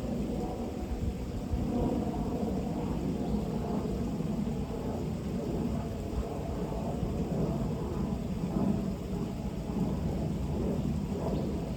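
Continuous low rumbling noise that swells and falls without a break.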